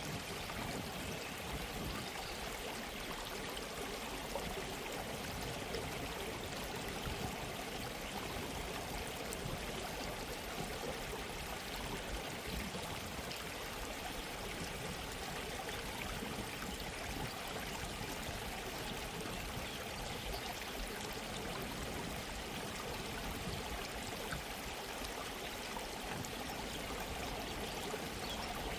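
A gentle stream of running water trickling and babbling steadily.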